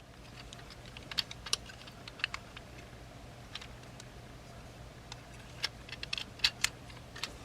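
Hard plastic parts of a Transformers action figure clicking and tapping as they are folded, pegged and handled: a dozen or so scattered, irregular small clicks, busier in the second half.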